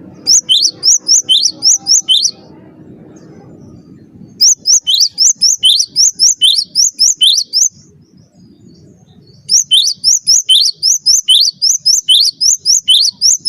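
Cinereous tit (gelatik batu) singing: three bursts of quick, high, repeated two-note phrases, each burst lasting two to four seconds with short pauses between.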